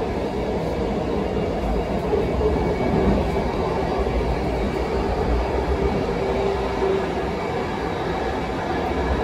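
Train running along the rails: a steady rumble of wheels on track, with a faint hum that comes up in the middle.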